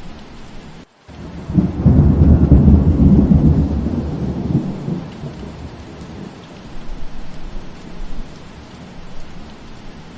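Steady rain with a roll of thunder: a deep rumble comes in about a second and a half in, is loudest for a couple of seconds, and dies away by about five seconds. A momentary break in the sound comes just before the thunder.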